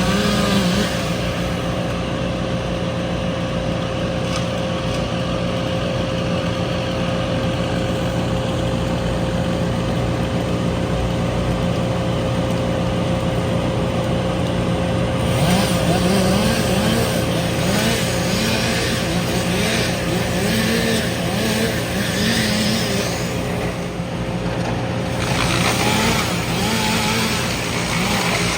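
A large engine running steadily with an even hum. In the second half, rushing noise comes and goes in stretches of several seconds.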